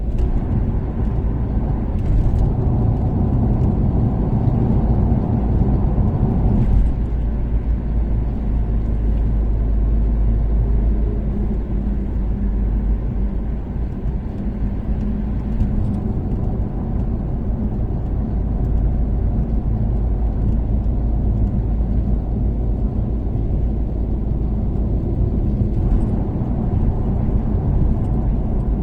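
Toyota Caldina's 3S-GTE turbocharged four-cylinder and its tyres rumbling steadily at an expressway cruise. A few faint ticks come through now and then.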